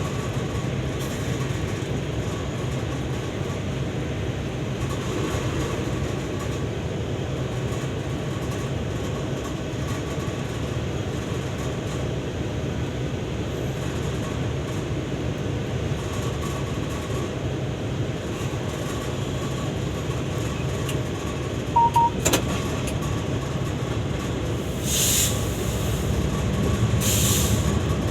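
Steady rumbling of a freight train or locomotive in a rail workshop. A short double beep comes about two-thirds of the way through, followed by a click, and two brief hisses come near the end.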